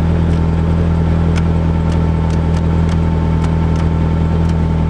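Nissan 240SX's engine idling steadily, loud and even with no revs, with a few light scattered clicks over it.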